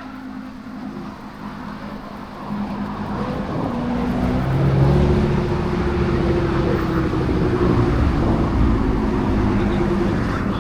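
A car engine running close by, getting louder about two and a half seconds in, then holding at a steady low rumble.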